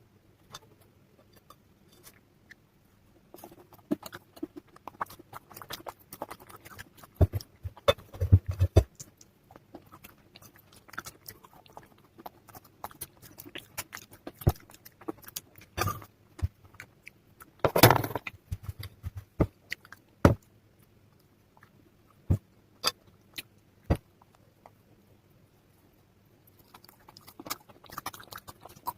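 Slate pencils and clay pieces crunching and snapping in a wet paste, in irregular sharp cracks with denser crunching clusters about a third of the way in and again past the middle, then a few single snaps.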